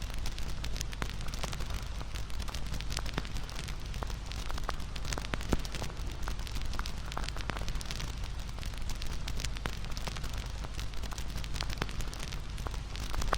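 Wood campfire burning: a steady low rumble of flames with frequent irregular crackles and pops, one sharper pop about five and a half seconds in.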